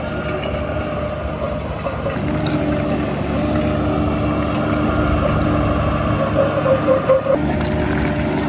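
Heavy earthmoving diesel engine running under load. It grows louder about two seconds in and wavers briefly near the end.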